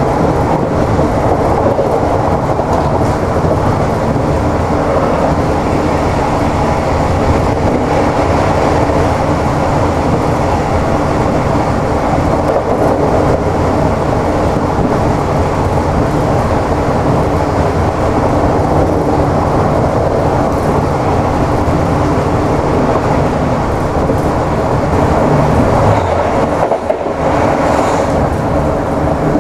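Interior running noise of an Irish Rail 29000 class diesel multiple unit at speed: a steady, loud rumble of wheels on the track and the train's running gear, heard from the passenger saloon.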